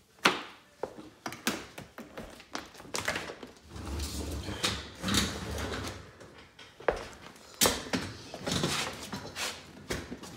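Irregular knocks, clicks and thuds from hands and tools disconnecting a dishwasher's drain hose, with a low rumble for a couple of seconds in the middle.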